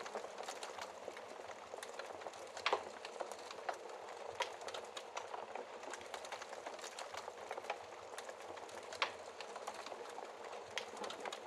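Wood fire crackling in a fireplace: a steady soft hiss of flames with many small crackles and a few sharper pops, the loudest about two and a half seconds in and again about nine seconds in.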